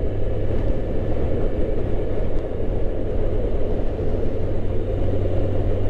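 Motorcycle engine running steadily while riding, with a constant low hum under wind and road noise.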